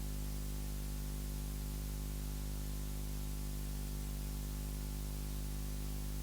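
Steady electrical hum with a row of overtones over a bed of hiss, as from mains hum in a sound system or recording chain.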